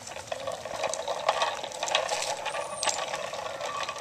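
A child's bicycle ticking and rattling as it is ridden, with many small irregular clicks.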